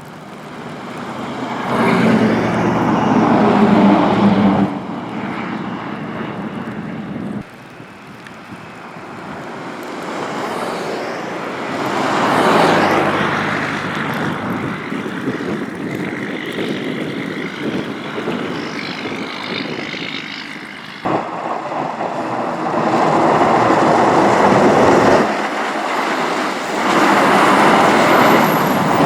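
Vehicles passing on a snow-covered interstate: engines and tyre noise swell and fade as cars and trucks go by, in several short segments that change abruptly.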